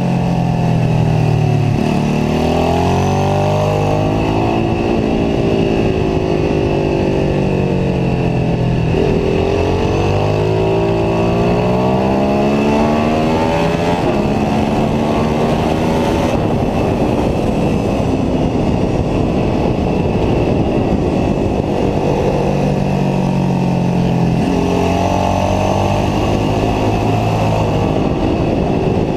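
Ducati 749S L-twin engine heard onboard at track speed, its pitch climbing hard under acceleration and falling back several times as the rider shifts and brakes for corners, over a steady rush of wind on the camera.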